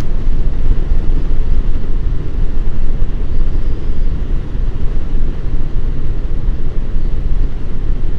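Suzuki Bandit motorcycle on the move: a loud, steady low rumble of wind and road noise over the microphone.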